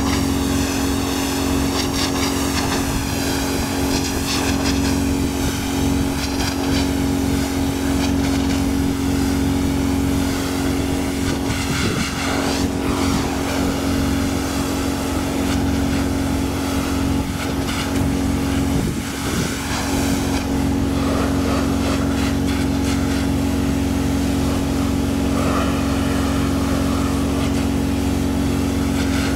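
Pressure washer running steadily, its motor humming under the constant hiss of the water spray blasting road salt and grime off a truck.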